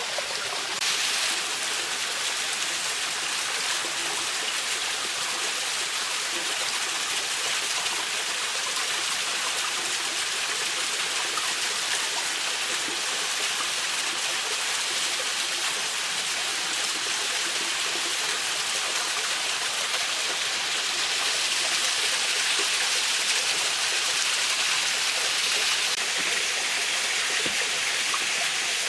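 A mountain stream running over rocks, a steady rushing hiss of water that stays even throughout.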